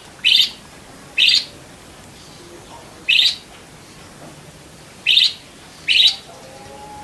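Budgerigar giving five short, sharp, harsh chirps at uneven intervals a second or two apart.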